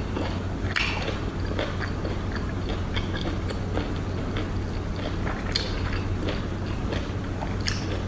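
Close-miked chewing of seafood in sauce: soft wet mouth smacks and clicks, a few sharper ones about a second in and near the end, over a steady low hum.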